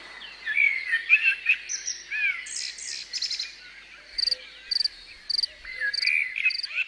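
Small birds chirping and warbling in quick, varied phrases. From about four seconds in, a high chirp joins them, repeated evenly about twice a second.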